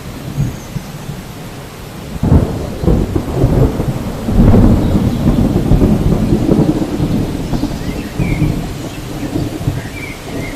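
Thunderstorm ambience: steady rain with a roll of thunder that builds about two seconds in, rumbles loudest in the middle and slowly fades.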